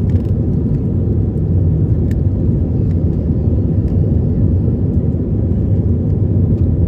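Airbus A319-111's CFM56 jet engines and airflow heard inside the passenger cabin as a steady, loud low rumble.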